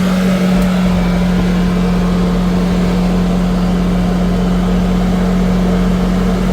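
An engine running steadily at idle: a constant, unchanging hum over a broad mechanical noise, with no revving.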